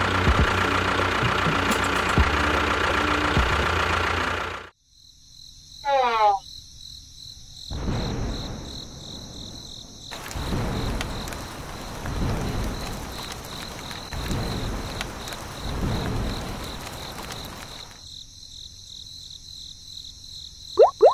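A small motor runs with a steady drone and cuts off abruptly about four and a half seconds in. A steady high insect chirring, like crickets, follows. A short falling whistle-like sound comes about six seconds in, and several swells of rushing noise come later.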